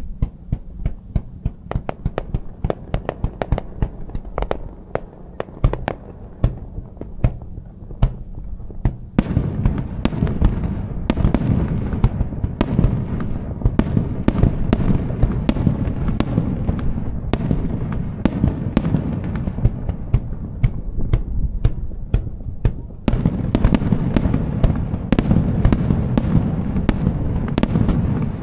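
Fireworks bursting in a rapid series of sharp cracks. About nine seconds in they thicken into a dense, continuous barrage of overlapping bangs and rumble, which grows heavier again near the end.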